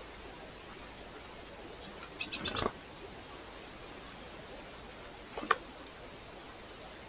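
Bird at a feeder: a quick run of four or five sharp ticks about two and a half seconds in, then a fainter pair near the end, over steady hiss.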